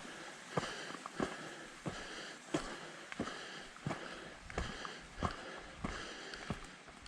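A hiker's steady footsteps on a trail, about three steps every two seconds, with the hiker's own breathing heard between them.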